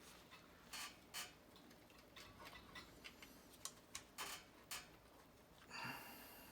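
Scattered light metallic clicks and taps, irregularly spaced, of bolts and a hand tool being worked while a B&G Series 100 circulator pump's motor is bolted back onto its bearing assembly, with a short rustle near the end.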